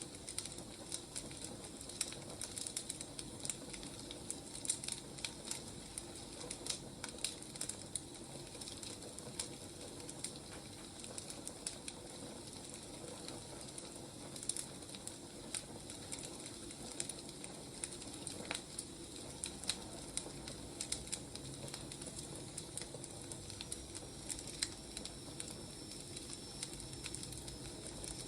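Wood fire crackling: a steady hiss with frequent irregular sharp pops and snaps from burning logs.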